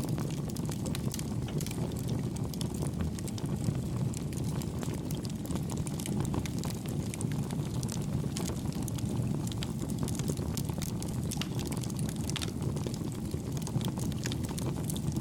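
Wood campfire burning: a steady low rumble of flames with many small, soft crackles.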